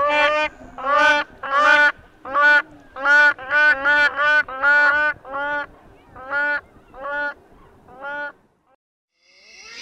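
Grey crowned crane honking: a run of calls at about two a second, each note rising then falling in pitch. The calls grow fainter over the second half and stop about eight seconds in.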